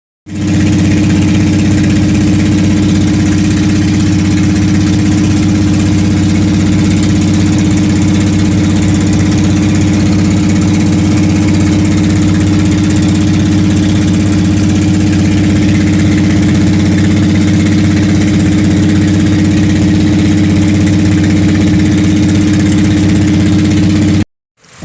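Boat engine running steadily at a constant speed, loud and close, its even drone unchanged throughout. It cuts off abruptly near the end.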